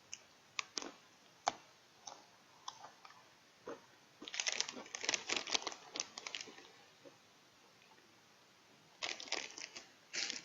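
Pepero biscuit sticks being bitten and chewed: a few sharp snaps, then two spells of crisp crunching, one about four seconds in and another near the end.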